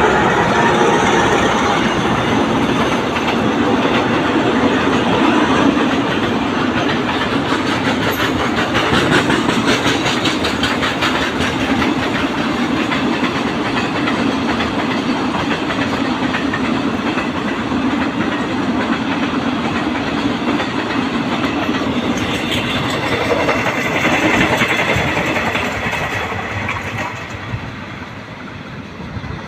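Diesel-hauled passenger train passing close by: a steady rolling rumble of the railway cars with a clickety-clack of wheels over the rail joints, fading away over the last few seconds.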